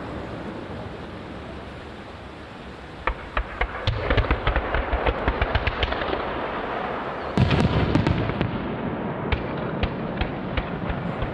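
Aerial fireworks bursting: a low rolling rumble, then from about three seconds in a dense run of sharp crackling pops. A heavy shell burst booms loudest about seven seconds in, and crackling pops carry on after it.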